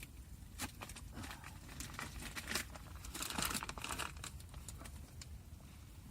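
Crinkling and rustling handling noise with scattered light clicks, densest about three seconds in.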